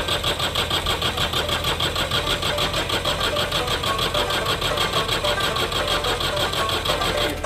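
Tractor diesel engine with a steady, rapid, even beat that cuts off abruptly near the end.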